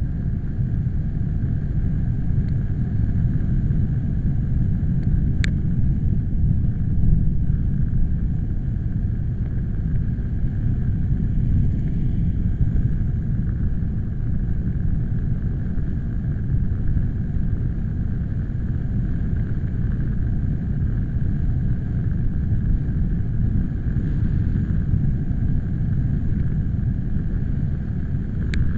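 Wind buffeting the microphone: a steady low rumble, with two faint sharp ticks, one about five seconds in and one near the end.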